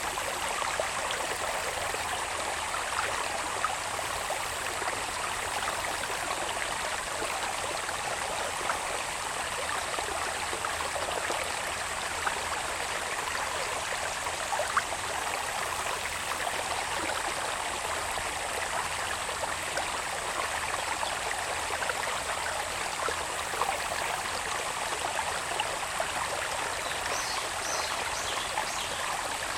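Babbling of a small irrigation channel's running water, with a steady high insect drone over it. A few short high chirps come near the end.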